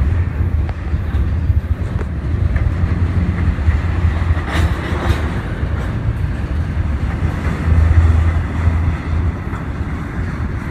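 A train rolling past with a steady low rumble of wheels on rail and a few faint clicks, louder about halfway through.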